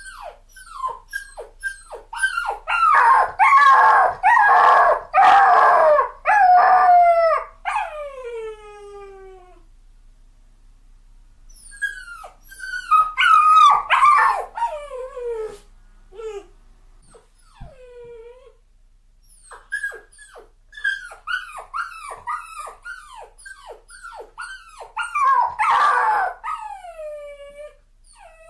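Dog whining and whimpering: many short, high cries that slide down in pitch. They swell into louder bouts of crying a few seconds in, again near the middle and near the end, with quieter whimpers in between.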